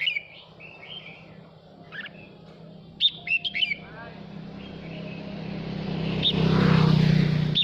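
Male red-whiskered bulbul singing short, bright, quickly bending whistled phrases in a few separate bursts. A rushing noise with a low hum swells over the last few seconds and peaks near the end.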